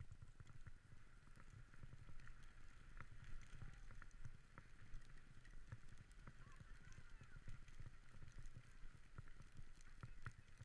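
Dog sled moving over snow: a faint steady low rumble from the runners, with scattered clicks and knocks throughout.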